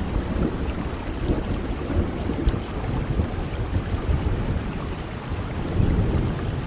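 Steady rain falling, with a low, uneven rumble underneath that swells briefly near the end.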